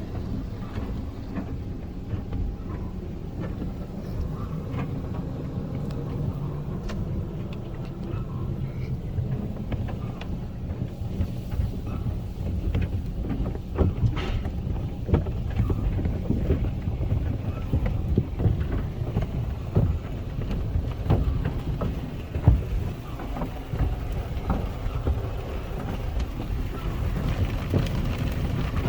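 Automatic car wash tunnel heard from inside the car: a steady rumble of spraying and machinery, broken all through by frequent soft slaps and knocks of the wash brushes and cloth against the car body.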